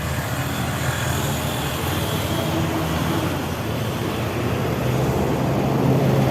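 Motorcycle engine running steadily, with road traffic noise around it.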